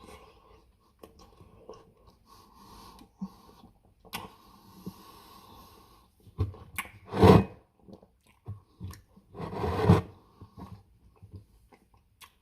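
A person chewing mouthfuls of Reese's Blizzard ice cream cake close to the microphone, with soft wet mouth clicks. Two louder noisy bursts come about seven and ten seconds in.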